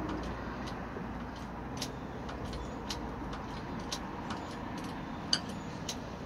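Faint irregular clicks and ticks, about two or three a second, from a hydraulic bottle jack being worked as it raises the loaded boat trailer, with one sharper click about five seconds in, over a low steady rumble.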